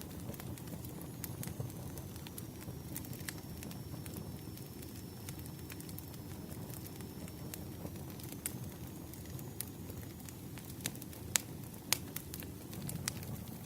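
Campfire crackling: a steady low rumble of burning wood with scattered pops and snaps, and two louder pops late on.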